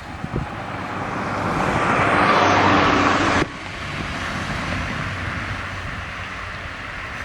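A passing train: a broad rushing noise that grows louder, cuts off suddenly about three and a half seconds in, and gives way to a steadier, quieter rumble.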